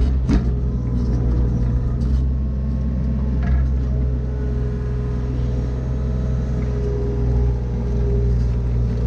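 Mini excavator's diesel engine running steadily, with a few short knocks and rattles over it.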